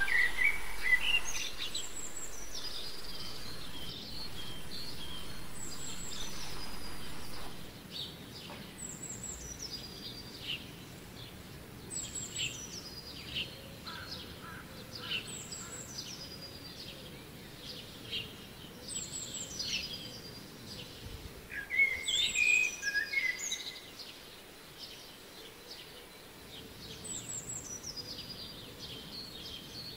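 A songbird singing the same short phrase over and over, about every three seconds. Each phrase starts high and falls away in a quick run of notes.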